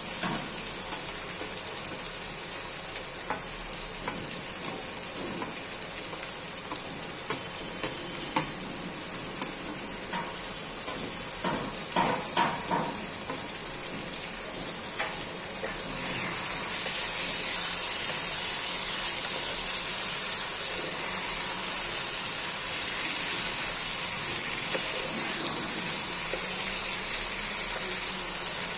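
Chicken and potato curry sizzling in a non-stick kadai, a steady frying hiss that grows louder about halfway through, with a few clicks of the stirring spoon about twelve seconds in.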